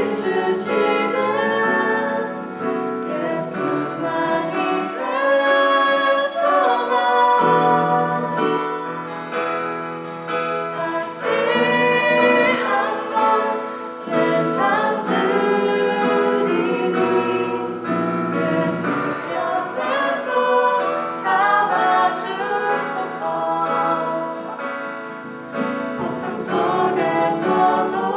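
A choir singing a Christian praise song in chorus.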